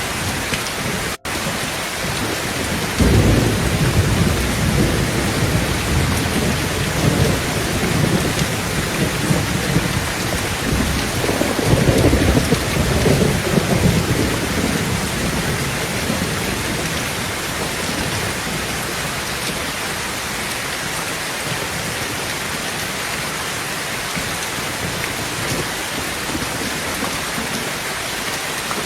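Heavy rain drumming steadily on a tin roof, with thunder. A rolling peal breaks in suddenly a few seconds in, and a second strong rumble comes about halfway through before fading away.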